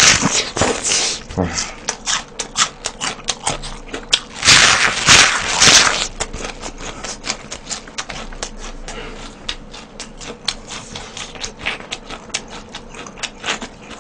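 Cabbage leaves being bitten and chewed close to the microphone: a steady run of crisp crunching cracks, loudest at the first bite and again around four to six seconds in.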